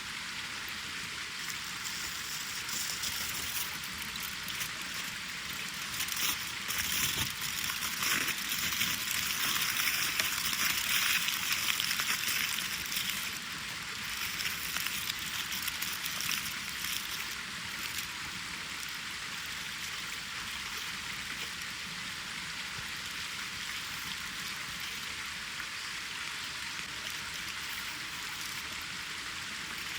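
Wood fire crackling and hissing in a campfire stand. It grows louder for several seconds in the middle, then settles back to a steady crackle.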